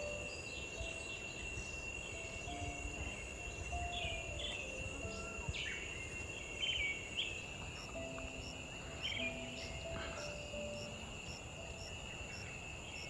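Outdoor ambience: a steady high-pitched insect drone with short bird chirps every second or two. A slow, soft melody of background music plays underneath.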